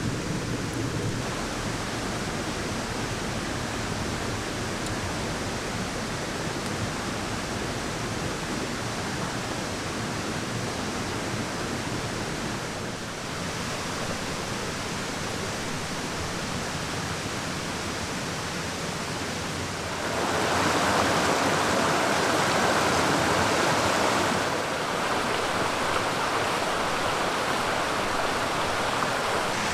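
Steady rushing hiss of water, rain or running water, growing louder for a few seconds about two-thirds of the way in.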